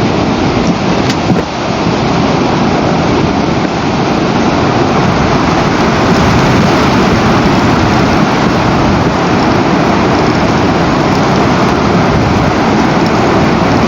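Wind buffeting an outdoor nest camera's microphone: a loud, steady rushing noise, dipping briefly about a second and a half in.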